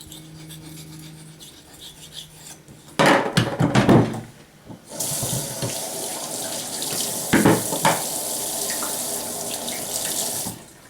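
Water tap running into a sink: a loud clatter and splash about three seconds in, then a steady stream for about five seconds that stops near the end.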